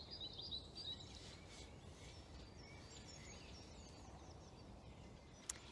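Faint birdsong over quiet woodland ambience: small birds twittering in short high chirps during the first second and again around the middle. There is a single sharp click near the end.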